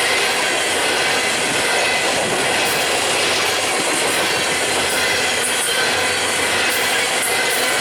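Freight train rolling past, a steady noise of steel wheels on the rails and the cars going by.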